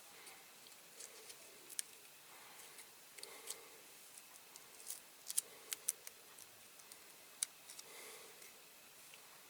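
Masking tape being peeled off a small painted diecast model, making faint, irregular clicks and crackles, with a cluster of sharper ticks in the second half.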